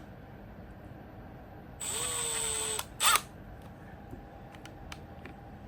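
Power drill spinning with a bit adapter fitted. It runs for about a second, starting a little under two seconds in, then gives one short pulse of the trigger; a few light clicks follow.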